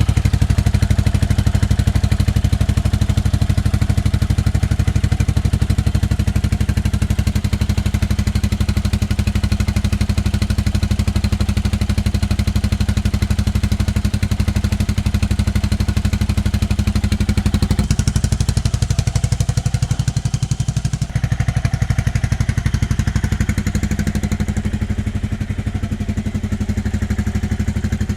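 Yamaha Majesty 400 scooter's single-cylinder four-stroke engine idling steadily through a Black Widow aftermarket exhaust, with no revving; the tone shifts slightly about 18 seconds in.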